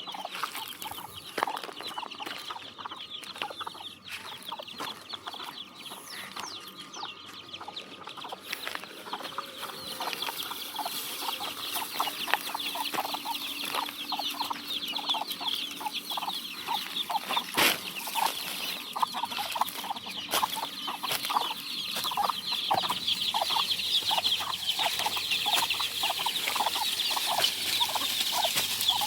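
A flock of desi (country) chickens clucking, with a dense layer of high, quick chick peeps that grows busier in the second half. One sharp click about two-thirds of the way through.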